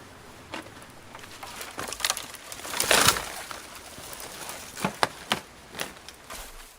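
Dry wood and brush cracking and snapping: a longer, loud crackle about three seconds in, then several sharp snaps a couple of seconds later.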